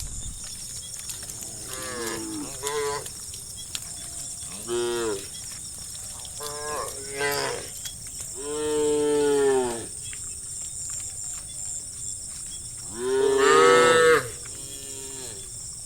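Cattle mooing repeatedly, about seven calls of varying length and pitch, with a long moo about halfway through and the loudest near the end. A steady high-pitched hiss runs underneath.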